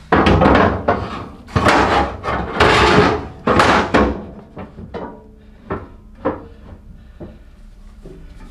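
Floor plate being fitted into the firebox of a fireplace insert: loud scraping and knocking as it is slid into place for about four seconds, then a series of lighter knocks and clicks as it settles.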